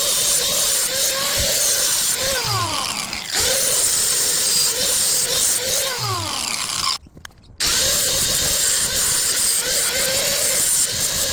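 A power tool running steadily, with a falling whine every few seconds, as if it bogs down under load; it cuts out briefly past the middle.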